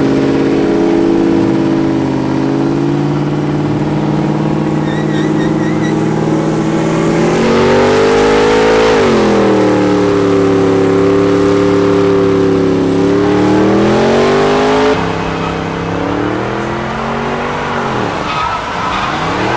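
A vehicle engine held at steady high revs, its pitch sagging and climbing back about halfway through and again near the end. It drops abruptly in level about three quarters of the way in.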